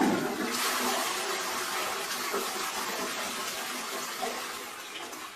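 Rushing water starting abruptly and slowly dying down over several seconds.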